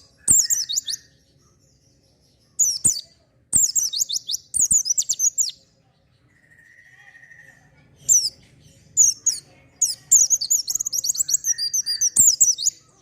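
Pleci (white-eye) in full song: short bursts of rapid, very high-pitched twittering, broken by pauses, with the longest run in the second half.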